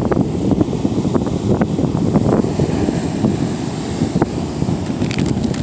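Strong wind buffeting the microphone in a loud, gusty rumble, with the Gulf of Mexico surf washing underneath.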